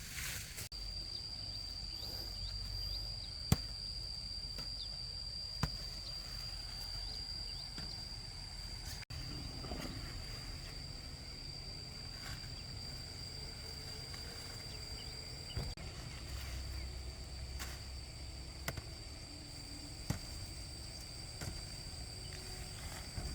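Outdoor rural ambience: a steady high-pitched whine with a low rumble beneath it and a few scattered sharp clicks.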